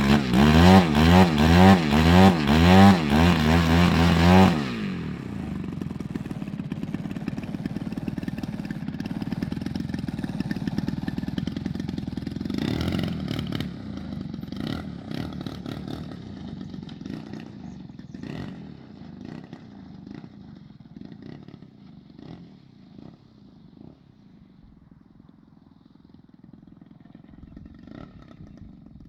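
Model aircraft engine running loud, its pitch wavering up and down, then cutting off suddenly about four seconds in. A quieter engine drone follows and fades away, with a few scattered clicks.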